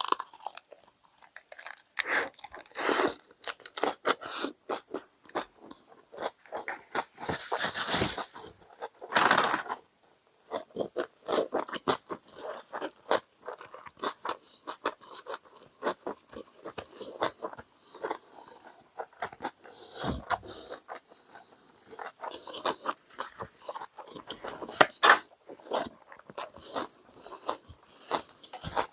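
A person chewing a mouthful of jokbal (braised pork trotter) skin with rice and soybean paste: crunching and chewing in irregular bites.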